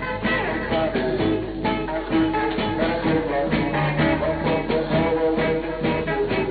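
A 1960s beat band playing live, electric guitar to the fore over bass and drums, in an old recording with the treble cut off.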